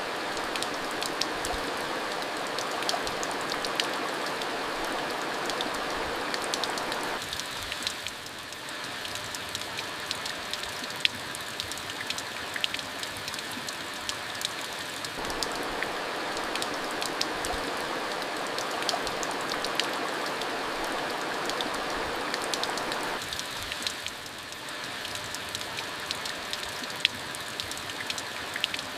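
Steady rain falling, with many sharp individual drops clicking on a hard surface.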